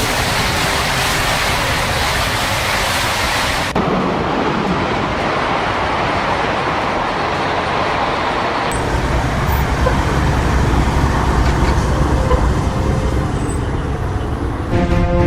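High-speed train running at speed: a steady rushing noise that changes abruptly twice, about four and about nine seconds in, with a deeper rumble after the second change.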